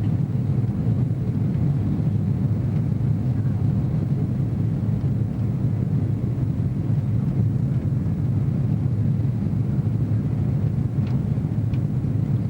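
Steady low rumble of a jet airliner's engines and airflow heard inside the passenger cabin, with two faint ticks near the end.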